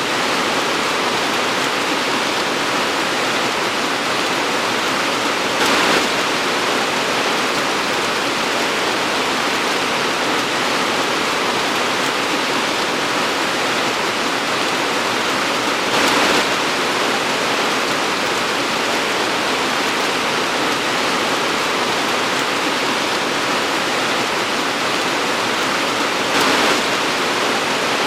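Torrential tropical rain falling in a steady, dense hiss, with three brief louder swells about ten seconds apart.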